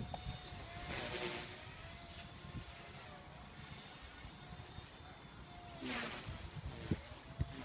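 Blade 130 X micro RC helicopter flying, its faint motor and rotor whine wavering in pitch as it manoeuvres, with two louder whooshing swells about a second in and near six seconds. Wind rumbles on the microphone throughout.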